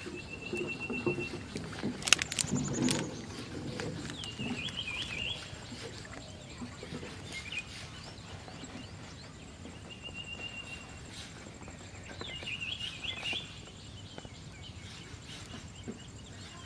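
Outdoor rural ambience with birds calling: a short steady whistled note, then a warbling call, repeated twice. There are a few sharp knocks about two seconds in.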